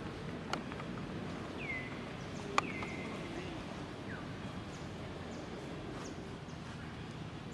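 Animal calls: two short high cries that drop in pitch and then hold, over a steady background noise, with a few sharp clicks.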